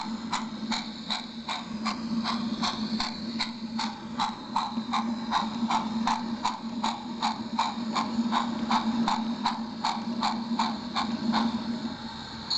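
A train running on its track: wheels clicking evenly over the rail joints about three times a second, over a steady hum that stops near the end.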